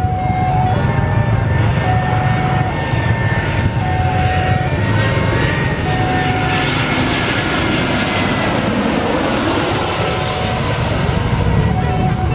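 An airplane's engines running loud as it passes close by, their whine gliding slowly downward in pitch through the middle. A short steady beep repeats about every two seconds.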